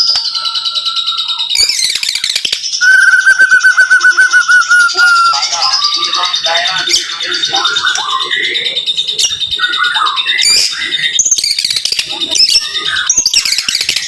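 White-rumped shama (murai batu) singing a dense, rapid song of sharp notes and whistles, with a fast trill of repeated notes a few seconds in.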